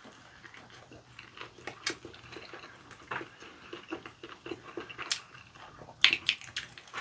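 Close-up eating sounds of sauced fried chicken being bitten and chewed, with scattered short clicks and crackles and a louder cluster about six seconds in.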